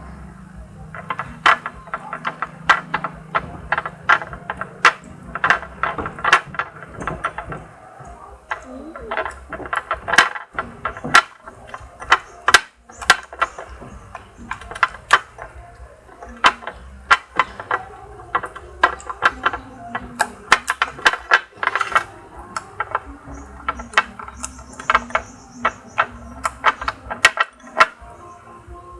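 Runny homemade slime being scraped from its container and worked by hand, making irregular sticky clicks and pops, several a second.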